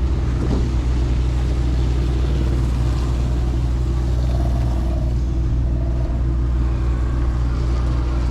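A small engine idling steadily, with a constant low hum.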